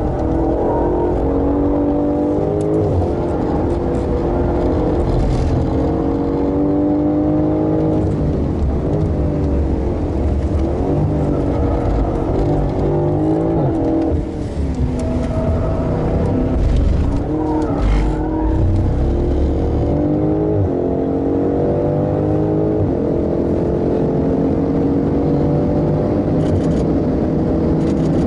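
BMW M5 engine heard from inside the car on a fast circuit lap: it revs hard through the gears in a series of rising pulls broken by quick upshifts. About halfway it falls in pitch and wavers as the car brakes and downshifts, then climbs up through the gears again.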